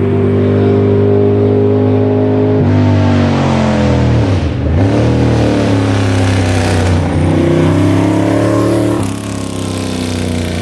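Ducati Monster S4R's L-twin engine through a custom straight-piped exhaust, pulling with its pitch climbing slowly. About four seconds in the revs drop sharply and climb again, and about nine seconds in they fall away.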